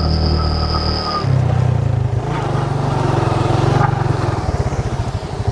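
An engine running steadily. Its pitch shifts about a second in, and near the end the sound turns into a fast, even pulsing.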